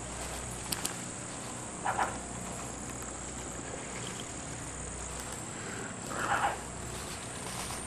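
Steady high-pitched insect chorus, with two short, louder calls, one about two seconds in and one about six seconds in.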